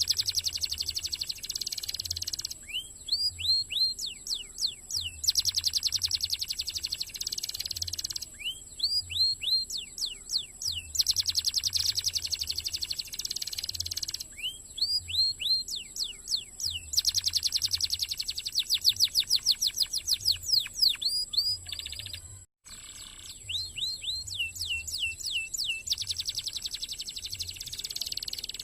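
Domestic canary singing a long, fast song: dense rapid trills alternate with runs of repeated sweeping whistle notes. The song cuts out for a split second about two-thirds of the way through.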